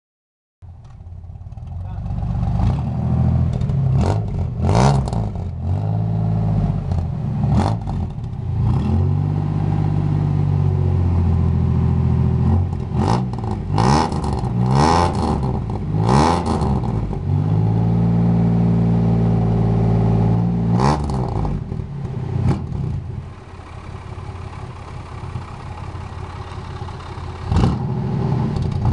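Dodge R/T engine and exhaust being revved again and again, the pitch rising and falling, with the revs held steady twice for a few seconds, and a few short sharp cracks among the revving. For the last several seconds it settles to a lower, steady idle.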